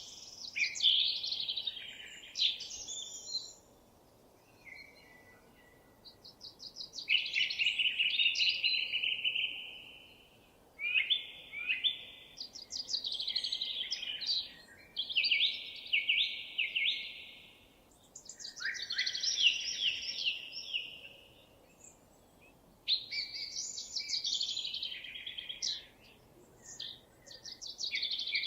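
Songbirds singing: a run of rapid, trilled song phrases, each a couple of seconds long, with short pauses between them, over faint steady outdoor background noise.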